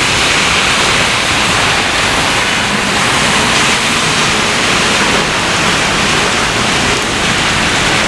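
Thunderstorm rain falling steadily: an even, unbroken hiss.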